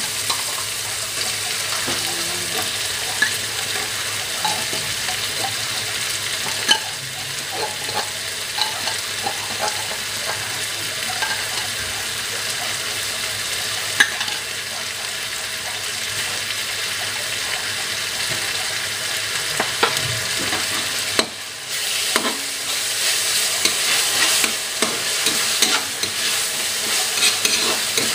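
Onion, tomato and canned tuna sizzling in a hot steel wok, with a metal spatula scraping and clinking against the pan as it is stirred. The stirring gets busier over the last several seconds.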